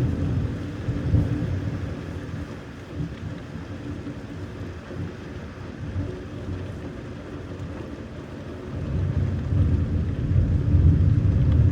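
Thunder rumbling over steady rain. A deep rumble is heard at the start, eases, then swells again in the last few seconds.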